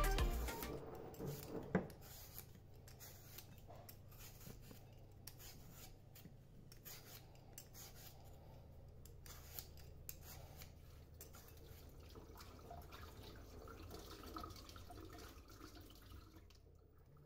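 Background music fading out in the first couple of seconds, then faint scattered clicks and rubbing of small household objects being handled.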